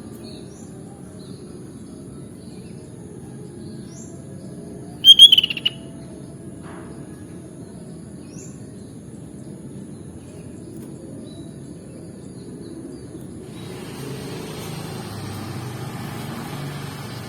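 Sooty-headed bulbul giving one loud, quick burst of call notes about five seconds in, amid faint short chirps, over a steady low background rumble. A soft hiss rises near the end.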